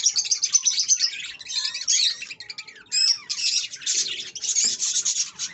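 Aviary birds, cockatiels among them, chirping and chattering in a dense, overlapping stream of high calls, with a brief lull about halfway.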